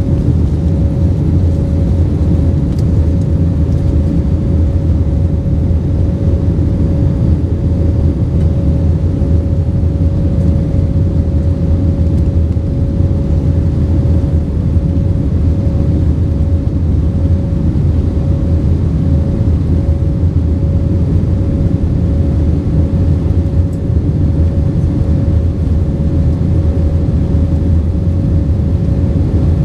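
Airbus A320-232 cabin noise in flight: a loud, steady rumble of its IAE V2500 turbofan engines and the airflow, with a steady hum tone running through it.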